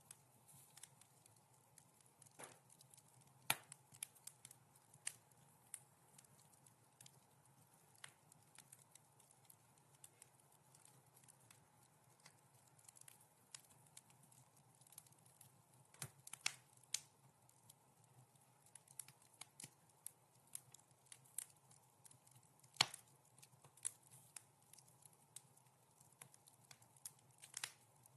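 Wood fire crackling in a fireplace: a steady scatter of small irregular snaps and pops, with a few sharper, louder pops about three and a half seconds in, around sixteen seconds and near twenty-three seconds.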